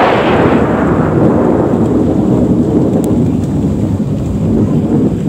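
Thunder: a sharp clap right at the start, then a loud rolling rumble that sinks lower in pitch and keeps going.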